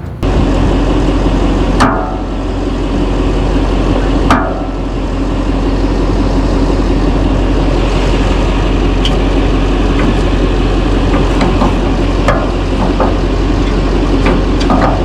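Duramax V8 diesel engine of a pickup truck idling steadily, with two sharp metal clanks about two and four and a half seconds in and a few lighter knocks later on.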